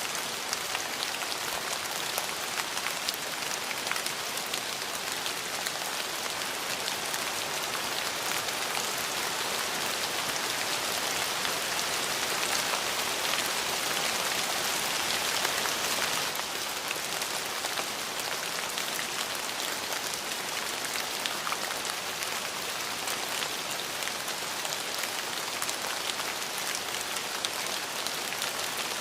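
Steady rain falling on a surface, an even hiss with many individual drop ticks; it swells a little toward the middle, then drops back about sixteen seconds in.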